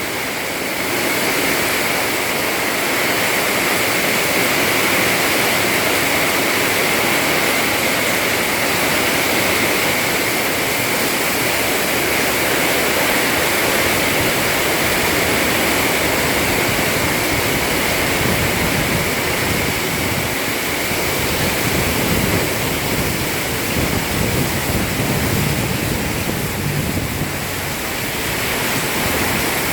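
Heavy tropical rain pounding on a corrugated zinc roof, a dense, steady roar of drumming with no letup.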